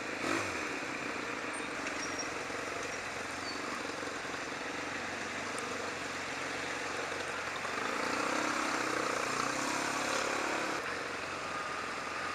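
Steady wind and road noise from a motorcycle under way, a Yamaha XJ600 inline-four, with its engine faintly audible underneath. About eight seconds in the engine note rises and swells for roughly three seconds, then settles back.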